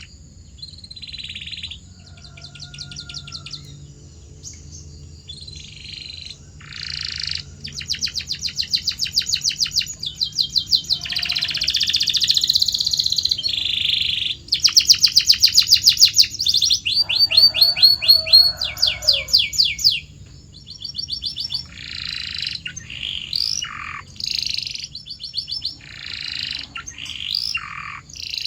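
Canary singing a long song of fast trilled phrases, each a quick run of repeated high notes, switching to a new phrase every second or two and loudest in the middle.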